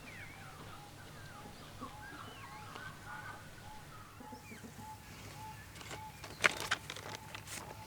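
Birds calling: a short call repeats about twice a second over scattered higher chirps, with a few sharp clicks near the end.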